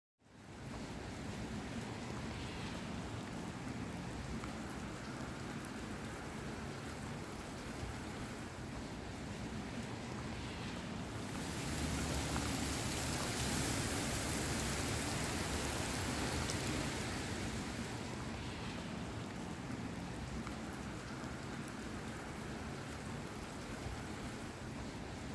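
Heavy rain falling on surfaces: a steady hiss that swells louder for several seconds around the middle, then eases back.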